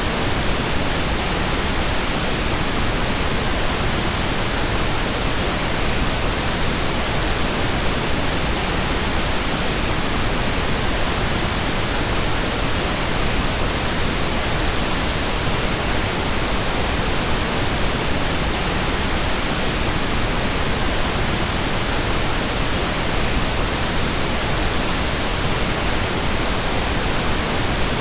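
Steady pink noise: an even, unbroken hiss spread across all pitches, with no changes.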